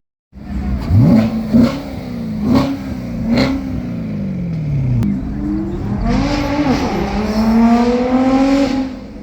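Car engine revved in four quick blips, the revs then falling away slowly, followed by a long steady climb in revs under hard acceleration near the end.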